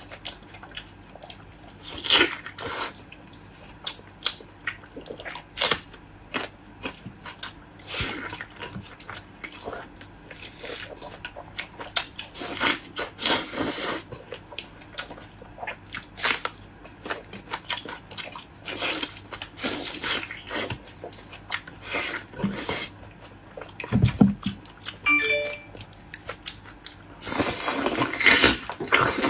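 Close-up sounds of a person eating: irregular bursts of chewing, biting and wet mouth smacks, with some crunching.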